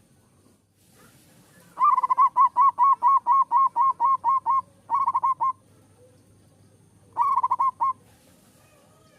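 Zebra dove (perkutut) singing: a long run of about a dozen quick, evenly spaced coos, about four or five a second, then a short run of five about five seconds in and another short run near the end.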